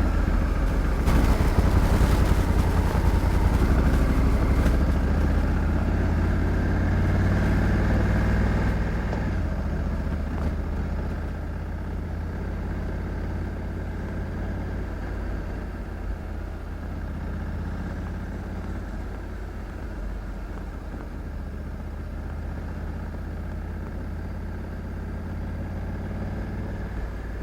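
Honda Africa Twin 1100 DCT's parallel-twin engine running. It is louder for the first nine seconds or so, then drops to a lower, steadier sound for the rest.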